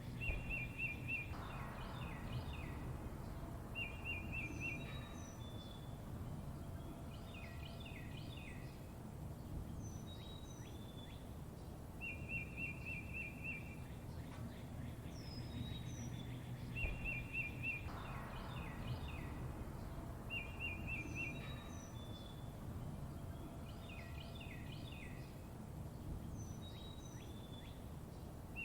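Several songbirds chirping and singing: a short rapid trill that comes back every few seconds, high down-slurred whistles and quick chirps, over a low steady background rumble.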